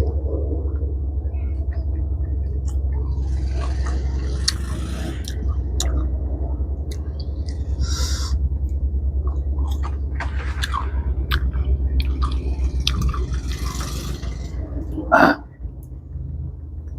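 Crunching and rustling close to the microphone, typical of people eating crisp fruit rujak, with scattered clicks and a sharp louder sound about fifteen seconds in, over a steady low rumble.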